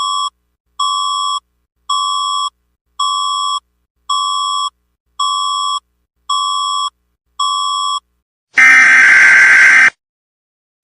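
Electronic emergency alert tones: eight short identical beeps at about one a second, then a loud, harsh buzzer blast lasting about a second and a half near the end.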